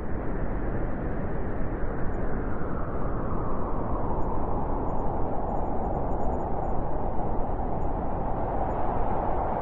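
Blizzard wind blowing in a steady, dense rush, with a howling band that grows stronger over the last few seconds.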